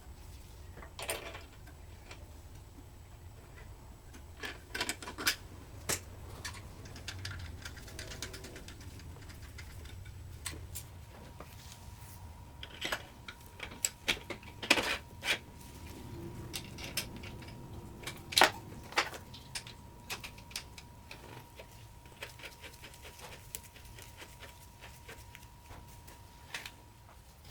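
Irregular clicks, taps and light clinks of tools and small metal parts being handled, with a few sharper knocks; a faint steady high hum comes in about a third of the way through.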